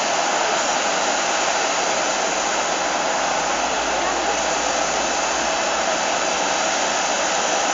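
A Boeing 737-700's CFM56-7B turbofan engine running steadily after start-up, a constant jet whoosh with a faint steady whine.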